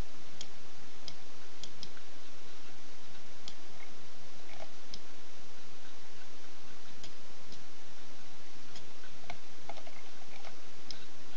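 Computer mouse clicking now and then, a dozen or so sharp irregular clicks, over a steady microphone hiss.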